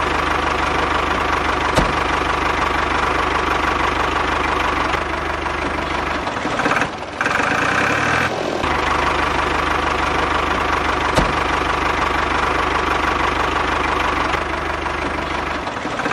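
Small engine of a homemade mini tractor running steadily, with a brief change in its note about six to eight seconds in and a couple of sharp clicks.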